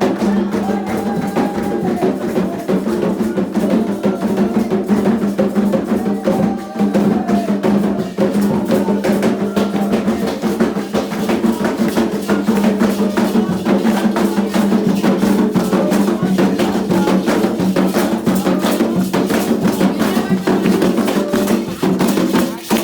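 Candomblé ritual music: drums and a struck bell or wood-block-like percussion keep a fast, steady rhythm under a group chant for Xangô. It breaks off right at the end.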